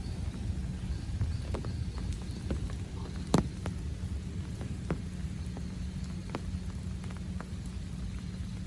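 Rain falling, with scattered drops tapping close by and one louder tap about a third of the way in.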